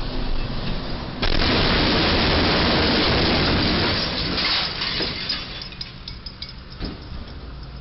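Overheight truck striking a low railway trestle: a sudden loud crash about a second in, a steady grinding, scraping noise for a couple of seconds as the truck body is torn open, then scattered cracks, clinks and a thump of debris falling.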